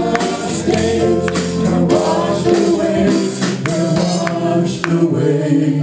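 Choir singing a gospel worship song with tambourine strikes, holding long notes that stop near the end.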